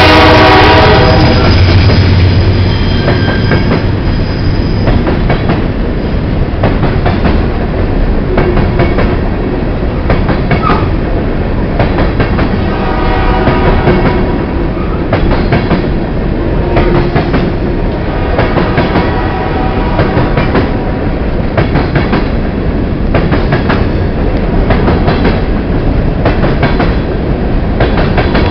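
Freight train rolling past a grade crossing: a steady rumble of wheels on rail, with repeated knocks as the wheels cross rail joints. The locomotive's horn blast trails off about a second in.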